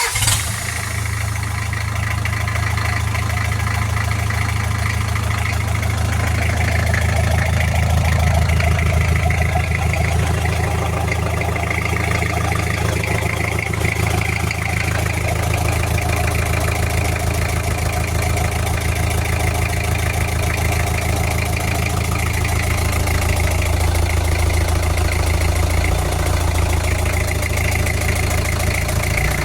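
Isuzu 4BE2 four-cylinder diesel engine starts at once and runs at a steady idle during a running check.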